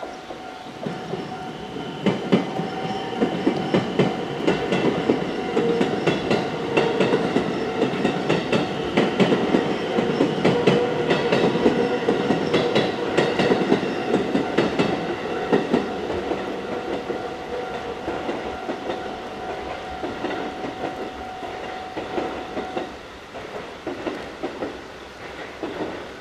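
Six-car JR West 223 series electric train passing over a level crossing, wheels clattering over the rail joints, loudest for the first half and then easing as it moves away. The crossing's warning bell rings steadily under it and stops a few seconds before the end.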